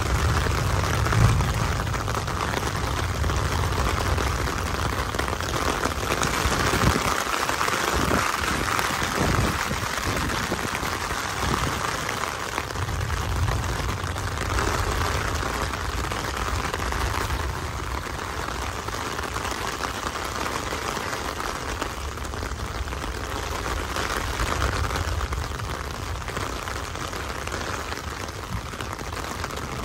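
Heavy rain falling steadily on a wet dirt road and puddles, an even hiss, with a low rumble underneath that swells and fades.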